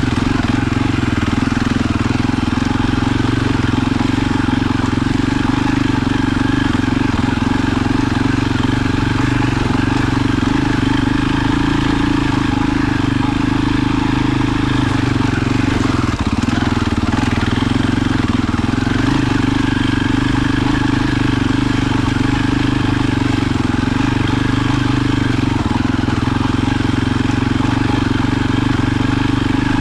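A vehicle engine running at a steady speed: a continuous, even drone that does not rise or fall.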